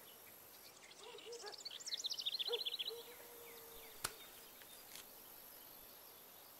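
A bird singing a rapid trill of high notes that falls in pitch, about one to three seconds in, over faint steady background noise. A single sharp click about four seconds in.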